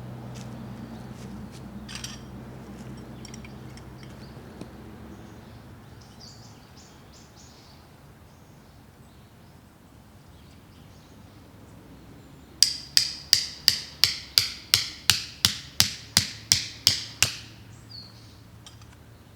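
A hammer striking a metal tent stake about fifteen times in quick, even succession, roughly three blows a second, each with a bright ring. The strikes start about two-thirds of the way in, after a stretch of low hum and faint bird calls.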